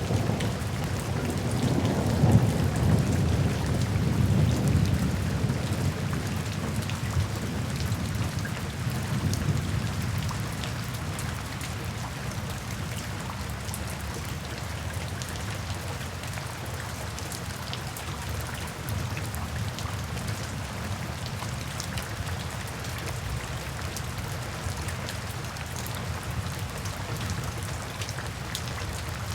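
Steady rain, with many small drops ticking through it. A low rumble of thunder is strongest in the first few seconds and fades away over about ten seconds, leaving just the rain.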